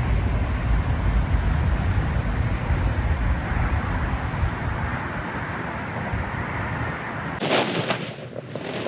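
Wind buffeting the microphone outdoors: a loud, low, rumbling noise. About seven and a half seconds in it changes abruptly to a lighter, patchier noise with scattered clicks.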